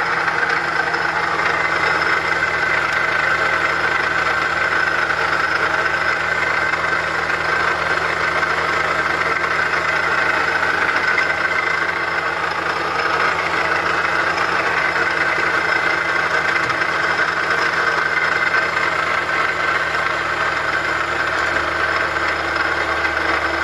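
2010 Toyota Corolla engine idling steadily, with a noise from the alternator and water pump side of the belt drive that the owner takes for a failing alternator or water pump.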